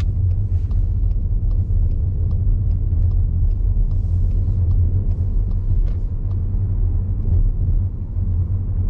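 Steady low rumble of a Skoda Superb on the move, heard from inside the cabin: engine and tyre noise, with faint scattered light ticks.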